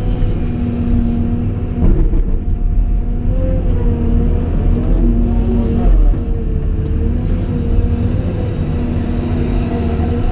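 Caterpillar 349E excavator running: a steady diesel engine rumble with a whine that rises and falls now and then as the hydraulics take load.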